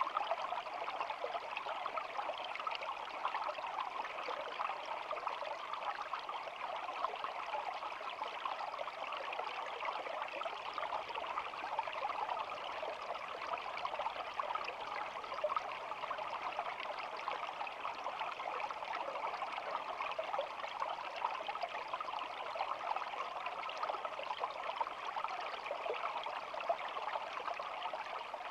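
Small shallow stream flowing and trickling steadily, an even, unbroken water sound.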